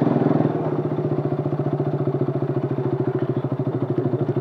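Motorcycle engine running at low revs with an even, rapid throb as the bike rolls slowly and pulls up. It eases slightly about half a second in, then holds steady.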